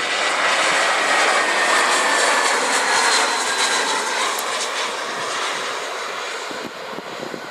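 Airbus A320 jet engines passing close during landing: a loud rushing noise with a whine that slowly falls in pitch, loudest in the first few seconds and then fading away.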